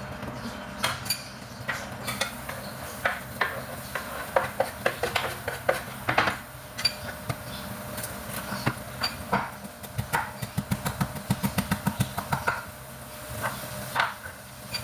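Kitchen work sounds: utensils and dishes clattering and knocking, with a fast even run of knocks about ten seconds in, over a steady low hum.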